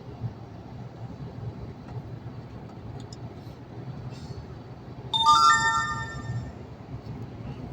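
Steady low drone of a truck cab on the move. About five seconds in, a short electronic chime of several ringing tones sounds and fades within about a second.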